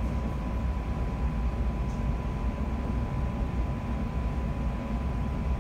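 Cabin noise inside a London Overground Class 710 electric multiple unit running at speed: a steady low rumble of the wheels on the track, with a thin steady whine over it.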